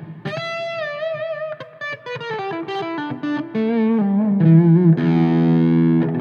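Electric guitar played through a Donner Tube Drive overdrive pedal into a Marshall amp, with some distortion. A held note with vibrato gives way to a quick descending run of single notes, and a chord is struck about five seconds in and left ringing.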